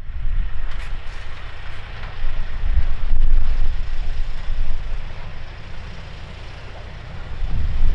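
Strong wind gusting in a snowstorm, rumbling heavily on the microphone with a steady hiss, swelling a couple of seconds in and easing off near the end.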